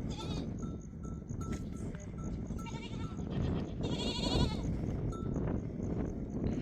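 A flock of sheep and goats bleating, with three quavering calls, and small neck bells clinking in the first half, over a steady low noise.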